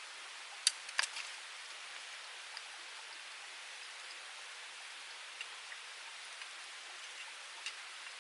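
Twigs burning in a small UNIFLAME Nature Stove: a wood fire crackling, with a few sharp pops over a steady hiss. Two loud pops come about a second in.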